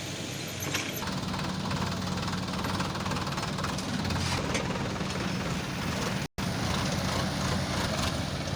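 Diesel engine of a Case 770FX Plus backhoe loader running steadily, with a short gap of silence about six seconds in.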